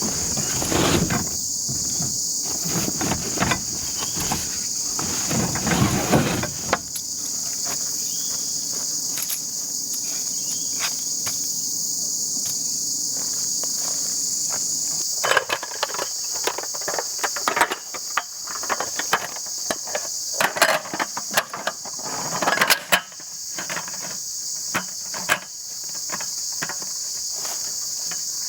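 Insects calling in a steady high-pitched drone, with irregular close rustling and clicks of things being handled for the first seven seconds and again from about fifteen seconds in.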